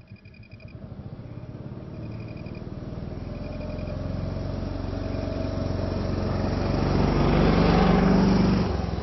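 Motorbike engine running, growing steadily louder over several seconds and then dropping off suddenly near the end.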